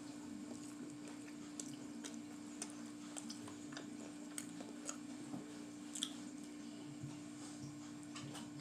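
Close-up chewing and biting of food, with scattered small wet mouth clicks and ticks, over a steady low hum.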